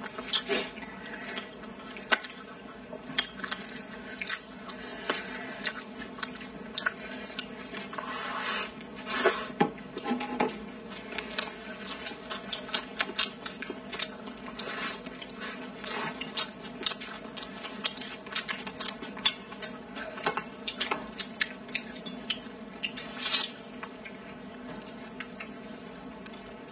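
Close-up chewing and mouth sounds of people eating braised meat, crayfish and chive-and-egg stir-fry, with many short wet clicks and smacks scattered throughout. A faint steady hum runs underneath.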